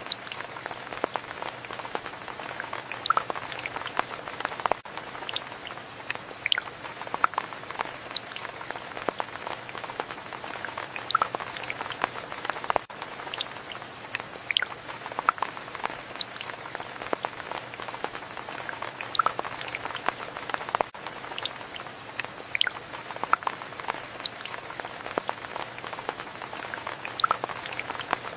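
Steady rain with many individual drops pattering and dripping close by, irregular ticks over a constant hiss.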